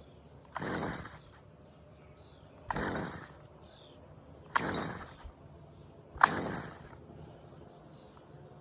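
A Stihl FS 45 string trimmer being pull-started four times, about two seconds apart. Each pull is a short rasp of the starter rope with the small two-stroke engine cranking, and the engine does not catch.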